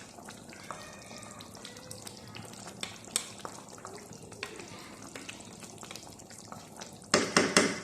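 Chicken frying in a karahi with scattered light scrapes and clicks as the green coriander-mint-chilli paste goes in. Near the end come about four loud knocks of the spoon on the pan in quick succession.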